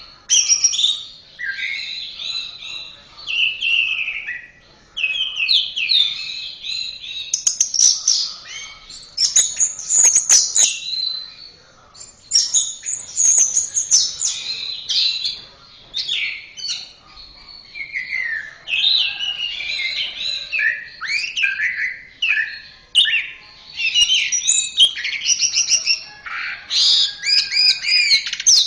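Orange-headed thrush (anis merah) singing a long, varied song of quick gliding and warbled phrases, with short pauses between phrases and a run of rapid repeated notes near the end.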